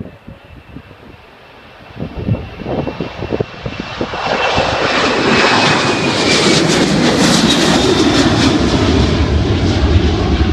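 Airplane engines growing loud about four seconds in and staying loud, with a thin high whine that falls a little in pitch as the aircraft passes.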